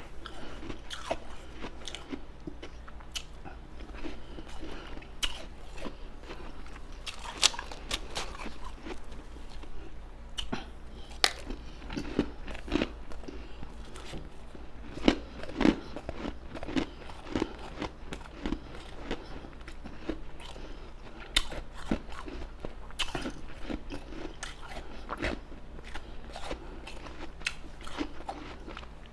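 Close-miked chewing and biting of crunchy, soft ice: a continuous run of irregular crunches, with a few sharper, louder bites.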